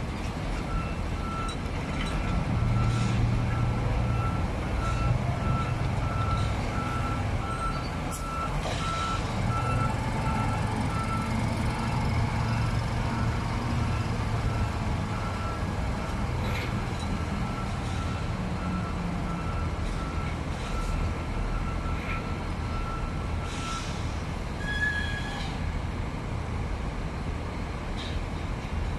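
Heavy truck's diesel engine running steadily while a reversing alarm beeps in an even, repeating pattern, stopping a few seconds before the end. A few short sharp hissing noises break in now and then.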